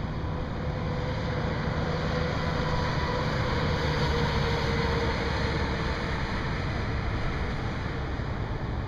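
Steady vehicle noise over a low hum, swelling to a peak about four seconds in and then easing off, as of a vehicle passing.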